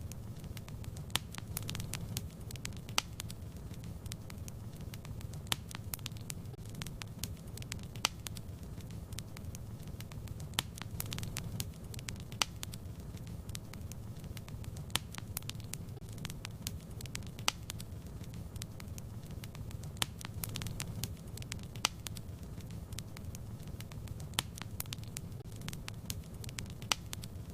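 Wood fire crackling: frequent sharp irregular pops and snaps over a steady low rumble of burning.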